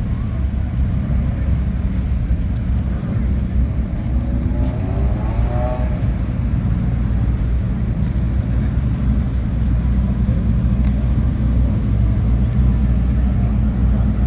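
Car engine running steadily with a low rumble, plus a brief rise in pitch about five seconds in.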